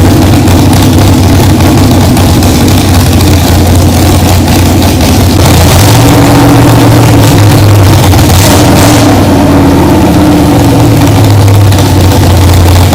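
Demolition derby car's engine running loudly at idle, its pitch lifting slightly around the middle as it is revved a little, then settling back.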